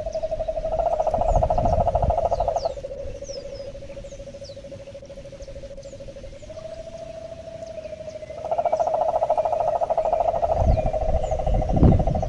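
Frogs calling: a steady trilling drone with two louder, rapidly pulsed bouts, one near the start and one in the second half. Short high descending chirps sound over it throughout, and a low rumble comes in near the end.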